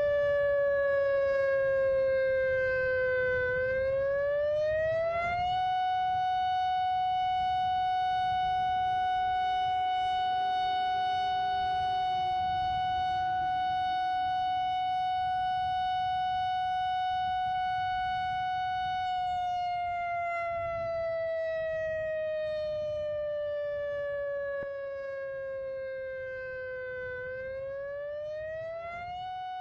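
Outdoor civil-defense warning siren sounding an evacuation warning. Its tone sinks over the first few seconds, climbs and holds steady for about fourteen seconds, then sinks slowly and climbs again near the end.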